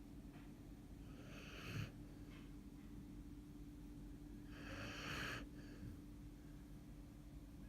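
A half-Samoyed dog snoring in its sleep: two noisy snoring breaths, about a second and a half in and about five seconds in, with faint short snuffles between.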